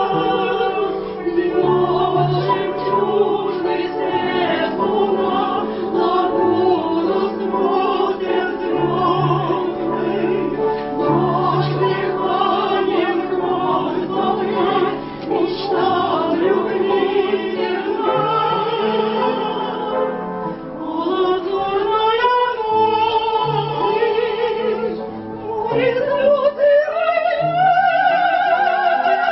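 Classical vocal ensemble singing in operatic style with wide vibrato over accompaniment; near the end one voice climbs to a long held high note.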